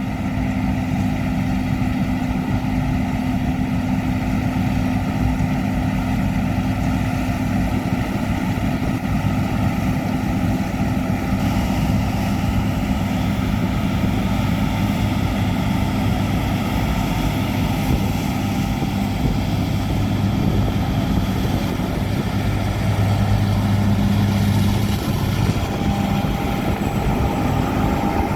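John Deere S790i combine harvester running steadily while harvesting wheat: a continuous, even engine and machinery drone with a constant low hum.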